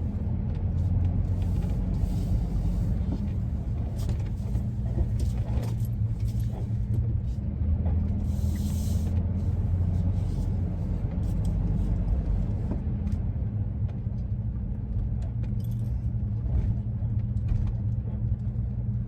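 Steady road and engine drone inside the cabin of a moving 2001 Ford E-350 van, low and continuous. A brief hiss comes about eight seconds in.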